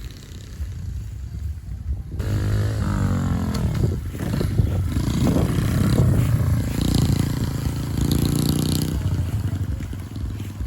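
Honda CRF50 mini bike's small single-cylinder four-stroke engine running, its note rising and falling with the throttle.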